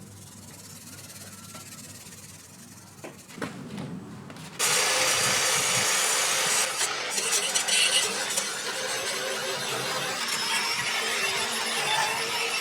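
Faint rubbing and scraping. About four and a half seconds in, a loud, steady abrasive rush starts abruptly as rust and paint are stripped from the pocket bike's metal parts.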